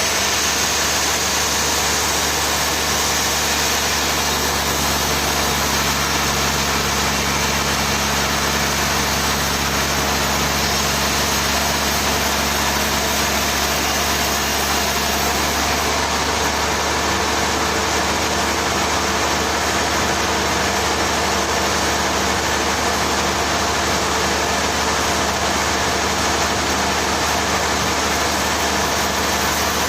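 Sawmill machinery running steadily: a constant engine hum with a broad rushing noise over it, its tone shifting slightly about halfway through.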